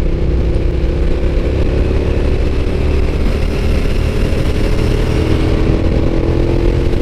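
Suzuki SV650S V-twin motorcycle engine running at steady revs while riding, with wind noise rushing over the microphone.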